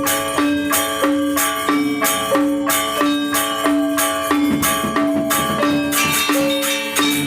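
Balinese gamelan playing: struck metallophones sound a steady, repeating pattern of ringing notes, with a high jangling percussion on the beats.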